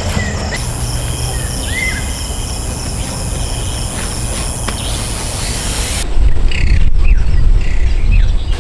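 Insects trilling steadily outdoors, with two short bird chirps early on. About six seconds in the trilling cuts off and a loud low rumble takes over.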